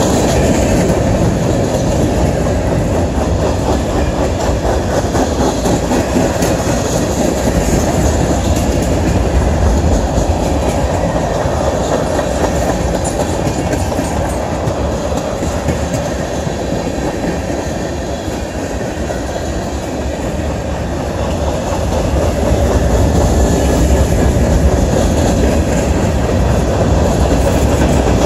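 Freight train cars rolling past, a mixed consist of covered hoppers and tank cars, their steel wheels running on the rails with a steady noise that eases off slightly about two-thirds of the way through before picking up again.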